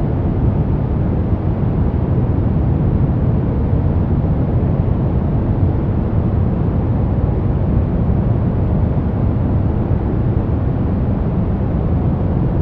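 Steady, unchanging synthetic noise from a white-noise sleep track. It is a deep, even rush, heaviest low down and thinning toward the top.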